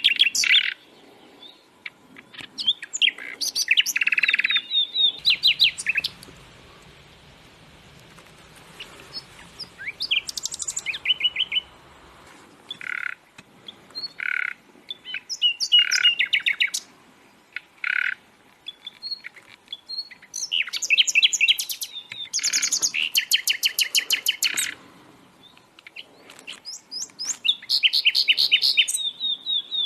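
Songbirds singing: bouts of rapid trilled notes and sharp chirps, each lasting a second or a few seconds, separated by short pauses.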